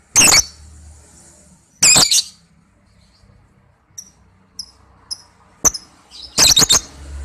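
Lovebird giving loud, shrill calls: one at the start, another about two seconds in, a few short high chirps in the middle, and a quick run of several calls near the end.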